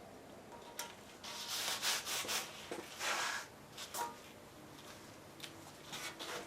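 Hand scraping of half-cured body filler on a steel tractor fender: a run of short rasping strokes, then a few small clicks.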